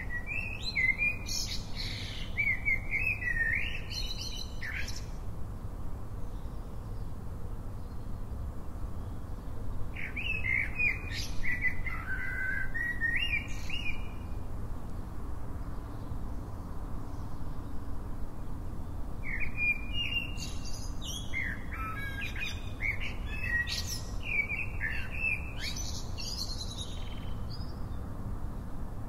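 A songbird singing in three runs of quick chirps and warbles, each a few seconds long with pauses between, over a steady low background hum.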